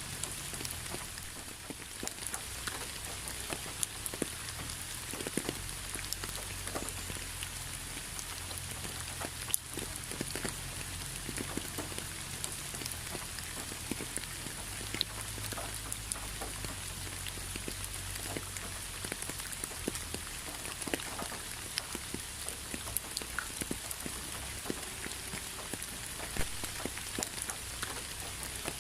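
Rain falling steadily, with a constant hiss and many separate drops ticking as they land close by.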